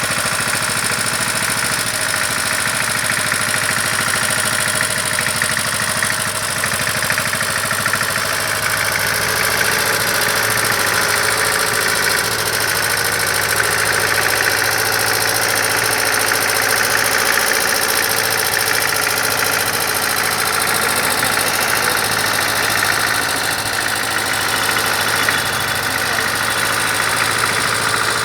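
Old Deutz farm tractor's diesel engine running steadily at an even, low speed, with a knocking beat.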